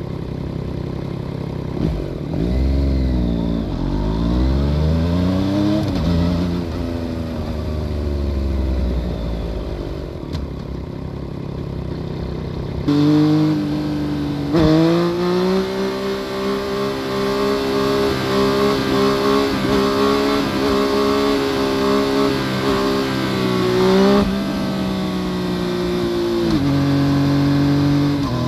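2014 Yamaha FZ-09's three-cylinder engine through an Akrapovic full exhaust system, heard from under the seat while riding. For the first half the engine revs rise and fall over a deep rumble. From about halfway it holds a steady high pitch with a step up soon after, then drops back in two steps near the end.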